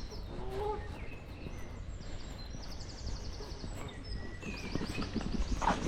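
Songbirds singing: several quick high trills of rapidly repeated notes and short whistles, over a steady low rumble.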